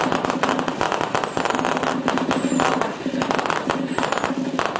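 Fireworks display going off in a dense run of rapid crackling and bangs, with a few faint falling whistles.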